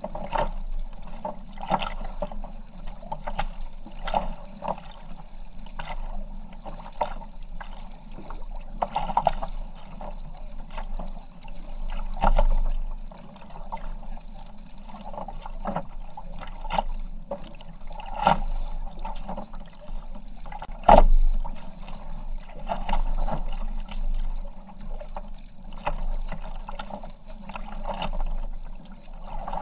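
Kayak paddling: the paddle blades dip and splash in the water, with irregular splashes and knocks every second or two.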